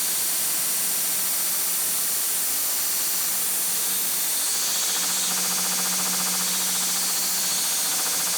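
Angle grinder running under load, grinding rust off the steel of an axe head: a steady hissing grind over a constant motor hum.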